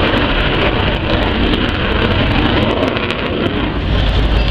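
Aircraft engine noise from a display flypast: a loud, steady rushing noise with no break.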